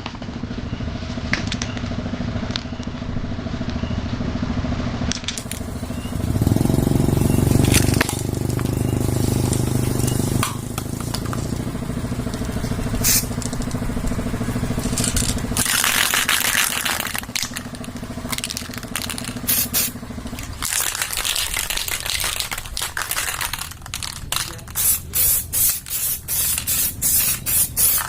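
Aerosol can of heat-resistant flat black spray paint hissing, first in longer sprays from about halfway in, then in a quick run of short bursts near the end, over a steady hum.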